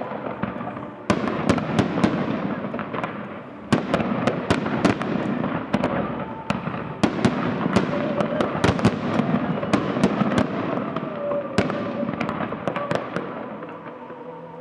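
Fireworks display: aerial shells bursting in quick succession, a dense run of sharp bangs and crackling, with fresh loud volleys about one, four and twelve seconds in.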